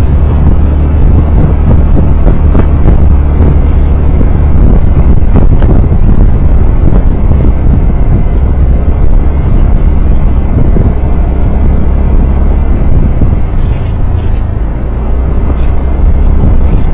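Loud, steady rumble of a moving vehicle on the road, with wind buffeting the microphone.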